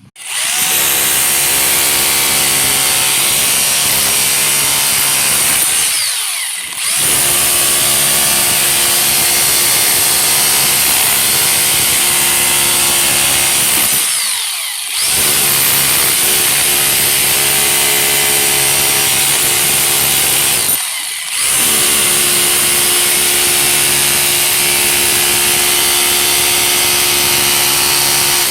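Handheld electric power tool running continuously under load with a steady motor whine, dipping briefly three times.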